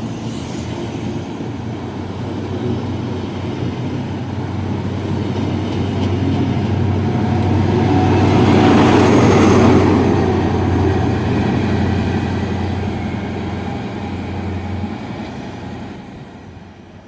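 A train passing: a steady low hum with a rumble that grows louder to a peak about nine seconds in, then fades away.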